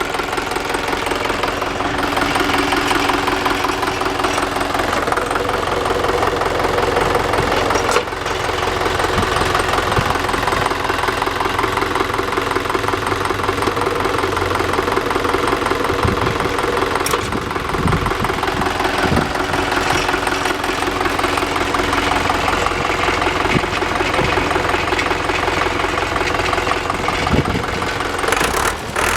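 Deutz F4L912 four-cylinder air-cooled diesel engine running steadily with an even diesel clatter.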